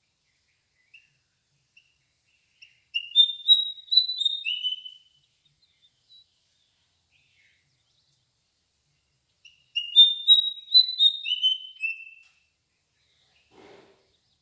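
A songbird singing two short phrases about six seconds apart, each a quick run of clear chirping notes that steps down in pitch. A faint brief rustle comes near the end.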